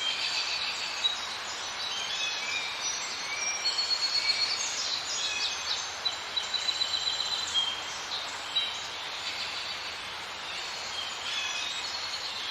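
Birds chirping and whistling, many short high calls, over a steady background hiss.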